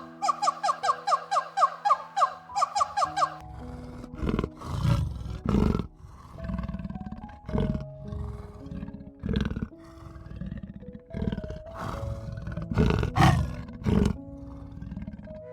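Background music with a quick, repeating plucked pattern, then, from about three seconds in, a lion roaring and grunting in a series of about eight loud, rough calls over the music.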